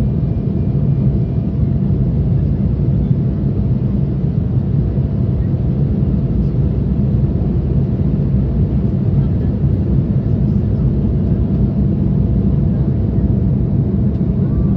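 Steady cabin noise of an Embraer 175 jet under way: an even low rumble of its CF34 turbofan engines and airflow, with a few faint steady tones above it.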